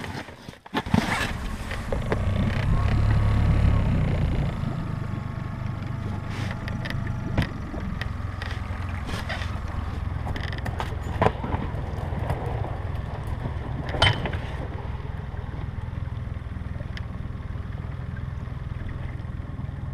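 Small outboard boat motor running steadily at low speed while it warms up on its first run after standing all winter, a little louder a few seconds in. A few sharp knocks sound over it.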